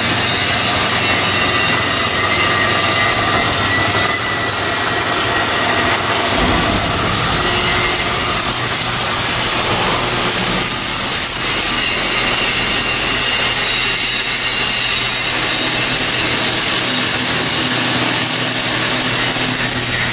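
Steady loud machinery noise of shipyard work: a constant low hum with a faint high whine over a broad rush of noise.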